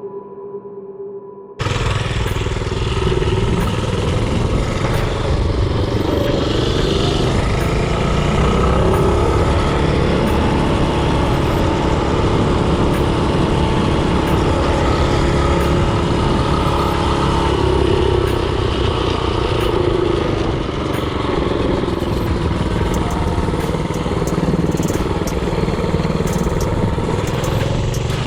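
Mini-bike's Predator 224cc single-cylinder engine running steadily under way, with wind noise on the head-mounted camera's microphone. It cuts in suddenly about a second and a half in, right after a short stretch of music ends.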